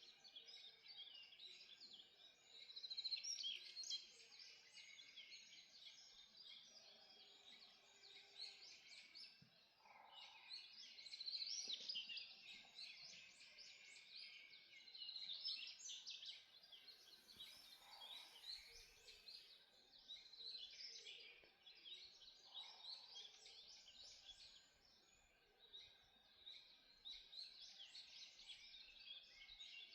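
Dawn chorus in a forest: many songbirds singing at once, a dense, continuous tangle of overlapping chirps and song phrases that swells and eases every few seconds.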